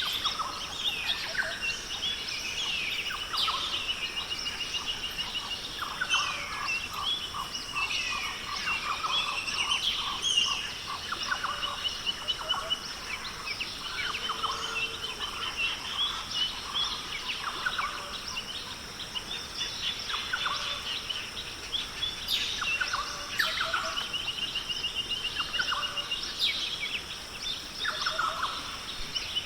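A chorus of many birds chirping and calling, one of them repeating a fast trill every few seconds, over a steady high-pitched drone.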